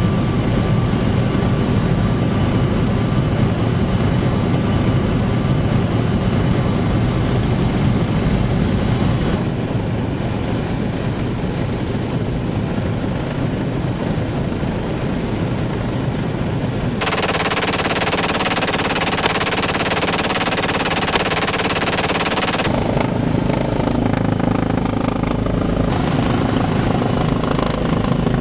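Bell OH-58 Kiowa Warrior helicopter turbine and rotor noise, changing character abruptly several times as different clips are cut together.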